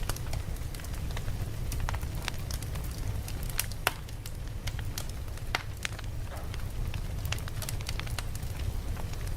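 Campfire crackling: a steady stream of irregular sharp pops and snaps from burning wood, a few louder than the rest, over a steady low rumble.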